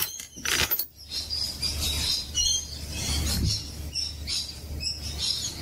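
Birds chirping and calling over and over in the background, most likely the rainbow lorikeets and galahs of an Australian yard. There is a low rumble underneath and a short sharp clatter about half a second in.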